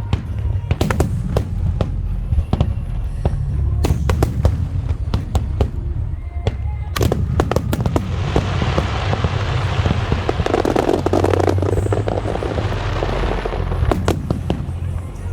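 Large aerial fireworks bursting in rapid succession, many sharp bangs over a continuous low rumble, with music playing alongside. From about eight seconds in a dense, noisy wash swells up for several seconds, then the separate bangs return.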